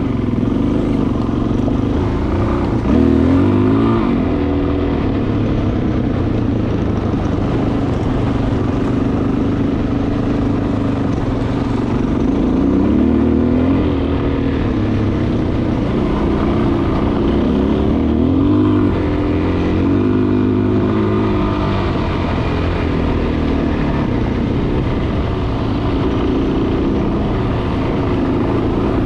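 Dual-sport motorcycle engine running while under way, its pitch rising and dropping several times with throttle and gear changes.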